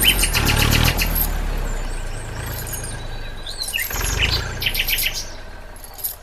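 A low engine rumble with rapid clicking comes in twice, the first in the first second and the second about four seconds in, while birds chirp now and then. The sound fades toward the end.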